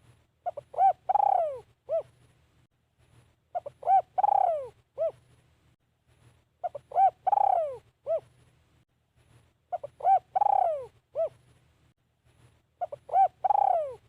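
Spotted dove cooing its repeated phrase, five times about every three seconds: two short coos, a long falling coo and a short final coo. A caged decoy bird is calling to draw in wild doves. A faint low hum runs underneath.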